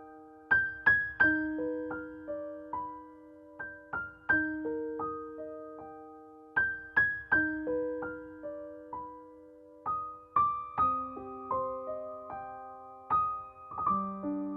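Background music: a gentle solo piano melody of single struck notes that ring and fade, repeating a short phrase.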